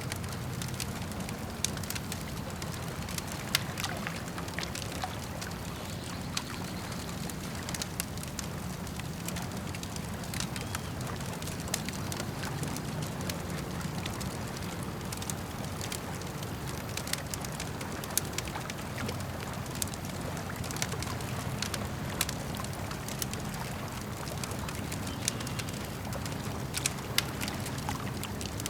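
Campfire crackling with irregular sharp pops and snaps over a steady low wash of lake water lapping.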